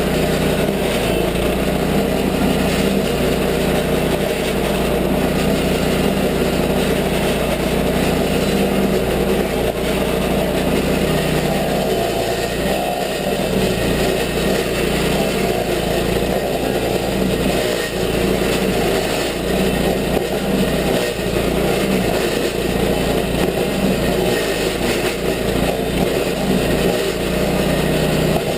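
Toro stump grinder's petrol engine running steadily at working speed without letting up.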